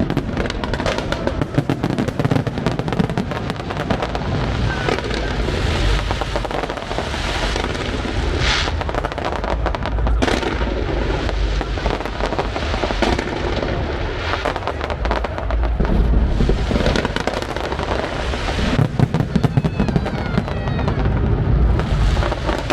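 Fireworks display: dense crackling and deep booms of aerial shells bursting, with music playing underneath. A few whistling glides sound near the end.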